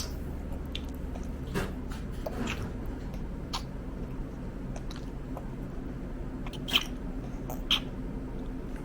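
Toddler eating, with chewing and mouth sounds and a few scattered small clicks and taps over a steady low hum. Two sharper clicks come near the end.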